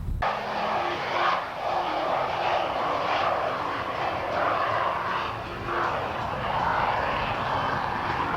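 Airplane engine noise as an aircraft flies by: a loud steady rushing sound that swells and eases several times, beginning abruptly just after the start.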